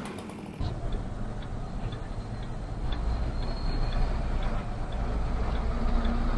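Vehicle turn-signal indicator ticking about twice a second over a low, steady engine rumble.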